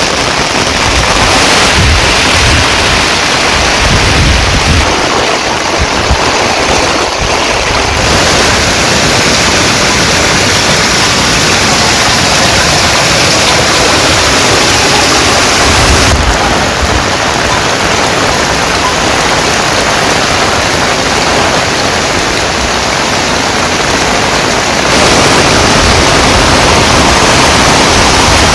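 Heavy rain falling, a loud, dense, steady hiss with no let-up, its tone shifting abruptly about 8, 16 and 25 seconds in.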